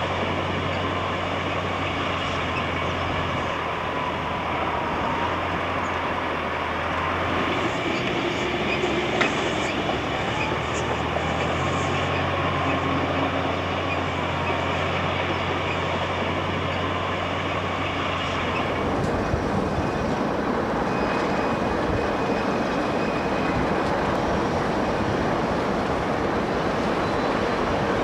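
Diesel-electric locomotive running under load, a steady low engine drone that changes about two-thirds of the way through to a rougher, noisier train sound.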